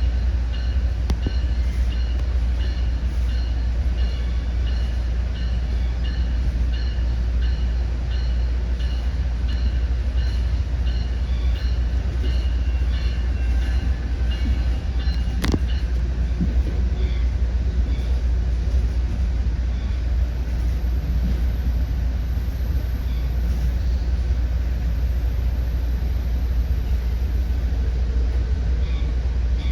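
Commuter train running at speed between stations, with a steady low rumble of the wheels on the track and a single sharp click about halfway through.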